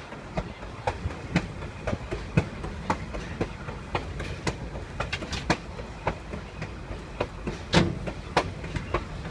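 Train running along the track, heard from on board: a steady low rumble with irregular wheel clacks several times a second. The loudest clack comes about three-quarters of the way through.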